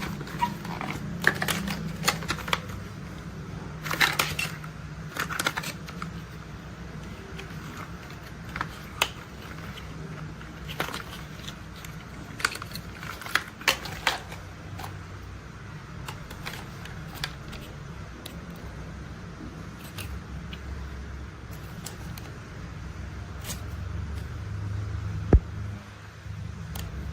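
Toy construction vehicles handled and tapped: irregular light clicks and taps, busiest in the first half, with one sharper click near the end, over a steady low hum. A low rumble builds in the last few seconds.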